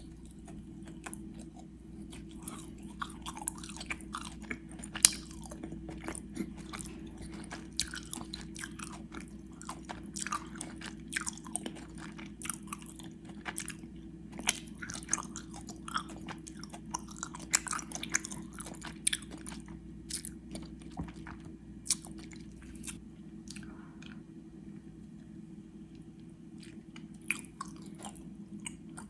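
Close-miked chewing of gummy worms: many short wet, sticky mouth clicks and smacks as the candy is chewed, thinning out a few seconds before the end.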